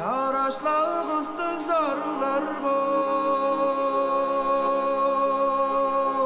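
Traditional Tuvan song: a male voice sings a short rising, winding phrase, then holds one long steady note for about three and a half seconds before sliding down.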